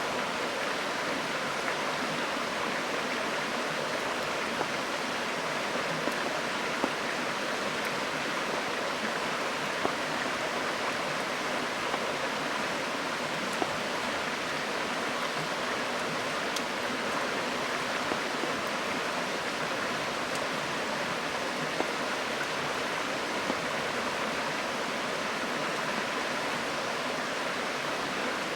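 River water flowing in a steady rush, with occasional sharp pops and crackles from a wood campfire, about ten over the stretch.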